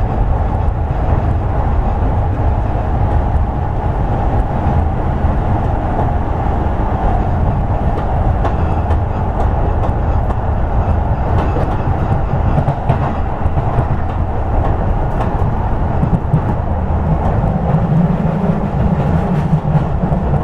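Steady running noise heard inside a Toei 10-300 series commuter train car as it travels: wheels on the rails and a continuous low rumble, with a deeper hum growing stronger near the end.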